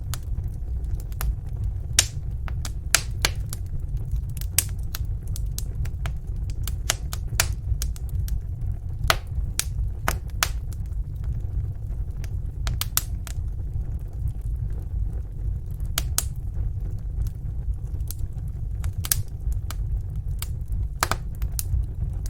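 Wood fire in a fireplace, crackling and popping in irregular sharp snaps over a steady low rumble of the burning.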